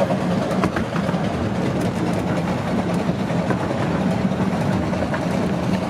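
A 15-inch-gauge miniature railway train running along the track, heard from a carriage: a steady rumble with scattered clicks of the wheels over the rails.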